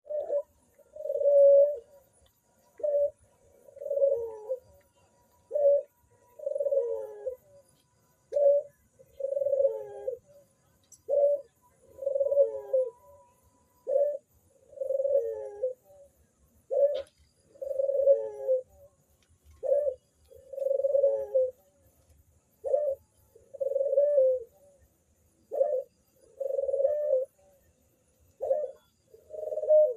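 A dove cooing over and over, about every three seconds. Each phrase is a short coo followed by a longer, wavering rolled coo.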